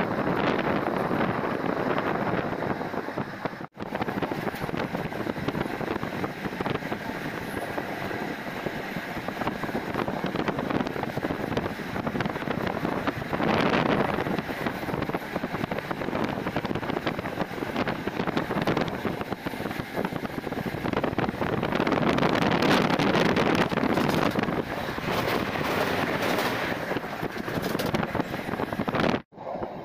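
A moving express train running along the track, a steady rushing noise with wind buffeting the microphone. The sound drops out abruptly for an instant twice, once about four seconds in and once near the end.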